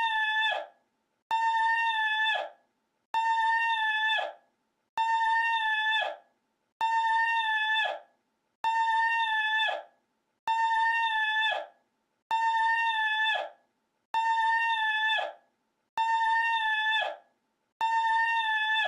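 The same short, high cry looped over and over: about eleven identical calls, one roughly every two seconds. Each holds one steady pitch for about a second, then trails off.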